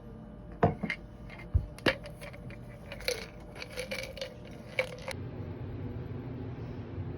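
A series of sharp clinks and knocks of hard objects, several ringing briefly, for about four and a half seconds; then they stop and a steady low hum remains.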